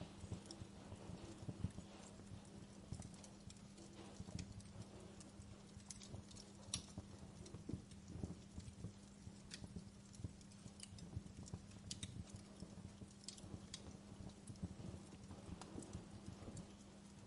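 Wood fire crackling in a fireplace: irregular small pops and snaps over a low rumble, with a faint steady hum beneath.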